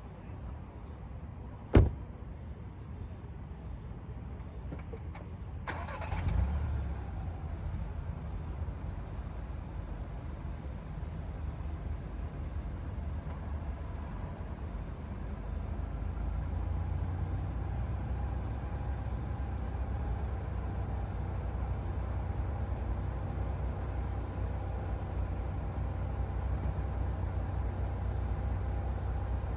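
A single sharp knock about two seconds in, then the Seat Leon FR's 1.5 eTSI four-cylinder petrol engine starts about six seconds in and settles into a steady idle.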